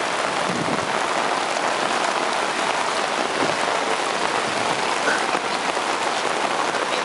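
Steady rain falling on wet city pavement: a dense, even hiss with faint scattered drop ticks.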